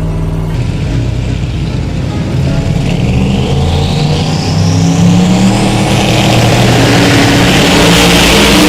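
A 400ci LS-based drag racing engine running in the truck, getting louder as it accelerates, with a whine rising steadily in pitch from about three seconds in.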